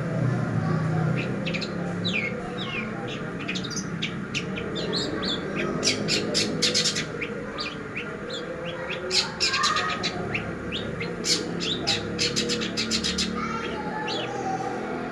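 Long-tailed shrike (cendet) singing: a busy run of quick, sharp chirps broken by fast rattling trills, over a steady low hum.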